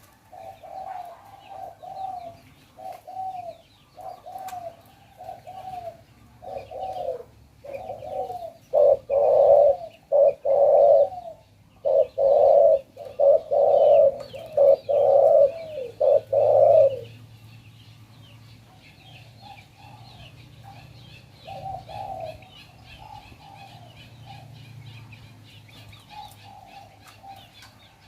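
Spotted dove cooing in repeated phrases of low coo notes, loudest and densest in a run about a third to two thirds of the way through, then fainter and sparser. Small birds chirp faintly in the background.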